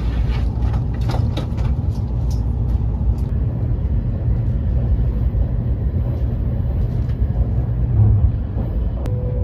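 Taiwan High Speed Rail 700T train running, a steady low rumble with a few light clicks in the first second or so. A held musical tone starts near the end.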